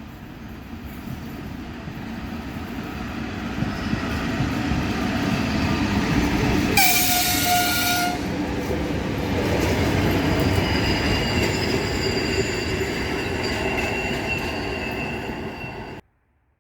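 Electric train approaching and passing, its rumble growing louder over the first few seconds, with one horn blast of just over a second about seven seconds in. Thin high whining tones sit over the running noise after the horn, and the sound cuts off suddenly near the end.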